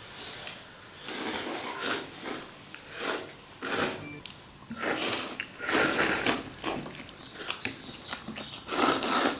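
People slurping noodles from soup bowls: a string of short, airy sucking rushes, about half a second each, coming several times with pauses between.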